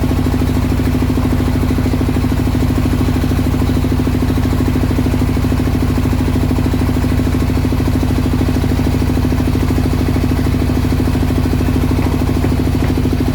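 Single-cylinder rice mill engine running steadily at a constant speed, with a rapid, even firing beat.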